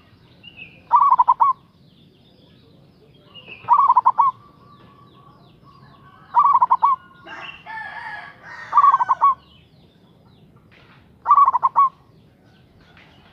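Zebra dove (perkutut) singing, a short burst of quick cooing notes repeated five times, about every two and a half seconds. Between the third and fourth phrases comes a rougher, noisier call lasting about a second.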